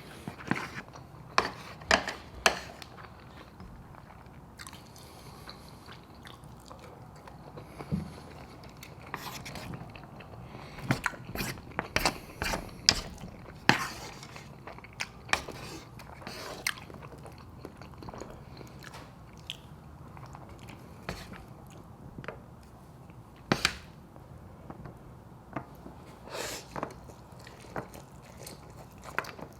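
Close-miked eating sounds: chewing and wet mouth noises with many short, sharp clicks and smacks at irregular intervals, bunched in several spells.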